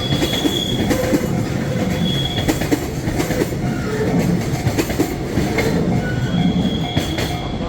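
A train rolling past, its wheels rumbling and clicking over the rail joints, with short high-pitched wheel squeals a few times.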